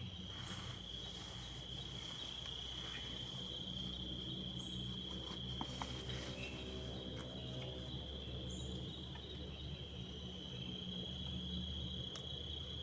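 Insects, likely crickets, giving a steady high-pitched trill, with a low steady hum beneath.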